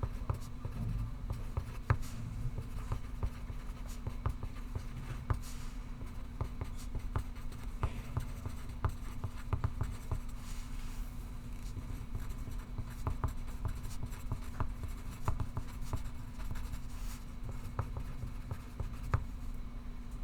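Pencil writing on paper, scratching irregularly with frequent short taps, over a steady low room hum.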